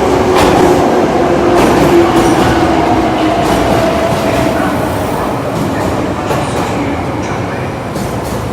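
A subway train moving through an underground station, with a steady motor whine and the wheels clicking over rail joints. The sound slowly fades.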